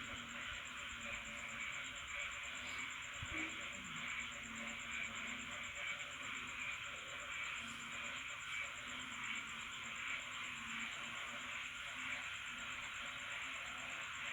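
Night chorus of frogs and insects after rain: a steady, high-pitched insect trill over a dense chorus of calls, with frogs giving low, on-and-off notes.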